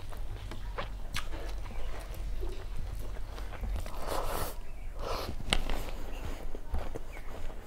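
A person chewing food close to the microphone, with many short wet clicks and smacks, two louder noisy bites about four and five seconds in, and a sharp click just after the second.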